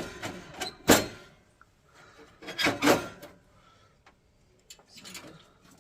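Hand work on boiler parts: a sharp knock about a second in, a short scrape near the middle, and a few light clicks near the end.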